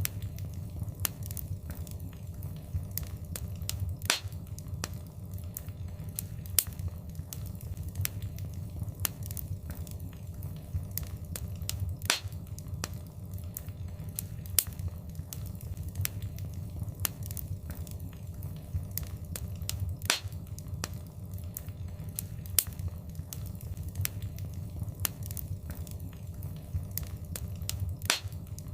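Wood fire in a fireplace crackling: a steady low rumble of burning with frequent small crackles and an occasional louder sharp pop every several seconds.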